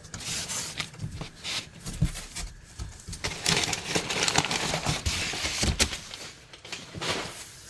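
Packing paper being pulled out of a cardboard box, crinkling and rustling, with scattered low knocks from the box. The crinkling is busiest from about three seconds in until about six and a half.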